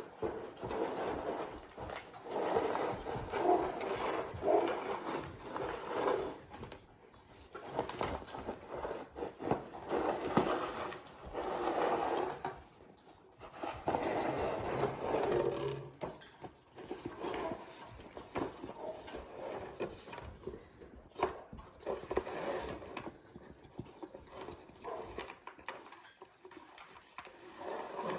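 A puppy playing with objects, pushing, mouthing and dragging them so they scrape and rub in irregular bursts of a second or two.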